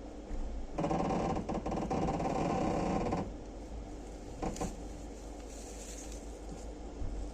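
Sleeper train running with a steady low rumble. About a second in, a louder mechanical clatter sets in for roughly two seconds, then a couple of short knocks follow.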